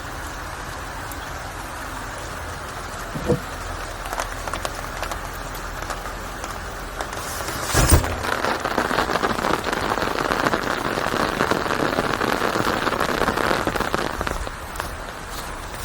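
Rain falling steadily, growing heavier about halfway through and easing near the end. A single sharp thump about halfway through is the loudest sound, with a fainter knock a few seconds before it.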